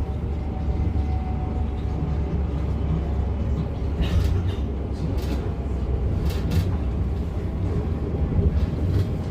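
Interior of a Class 710 (Bombardier Aventra) electric train: a steady low rumble, with several sharp clicks and knocks around the middle and near the end.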